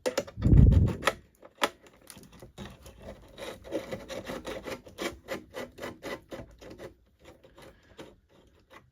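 A hand screwdriver turning out a screw that holds the drive in an original Xbox: a heavy bump right at the start, then several seconds of irregular clicking and scraping strokes that die away near the end.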